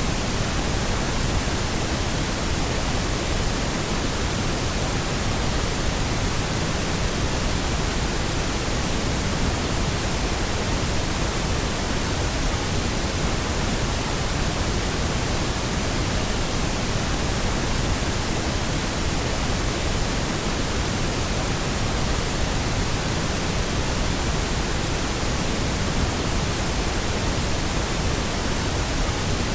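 Steady pink noise: an even, unchanging hiss spread across the whole range of pitch, with no tones or events.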